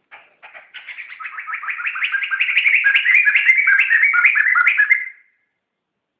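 Poksay (laughingthrush) singing a fast run of repeated two-part notes, about five a second, that grows steadily louder and then cuts off suddenly about five seconds in.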